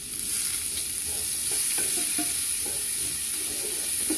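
Chopped spring onions sizzling as they fry in pan juices in a frying pan, stirred with a spatula that scrapes against the pan. The sizzle swells just after the start and then holds steady.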